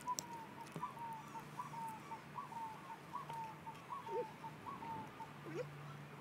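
A songbird calling in the background: a short, slightly falling note repeated about twice a second, steady for about five seconds, with a couple of fainter, lower chirps near the end.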